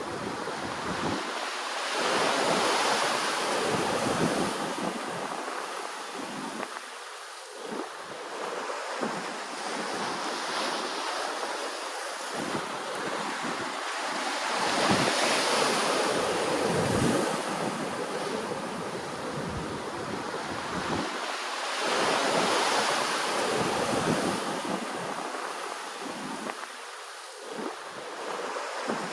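Ocean waves washing in and out on the shore. The noise swells loud roughly three times and ebbs between surges.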